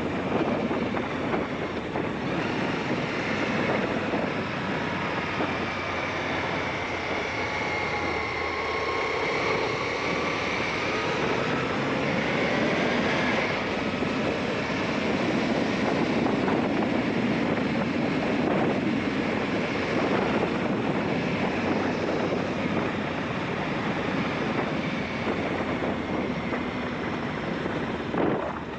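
Aprilia Shiver 750 V-twin motorcycle engine on the move, its pitch rising and falling with the throttle and gear changes, under heavy wind noise buffeting the action camera's microphone.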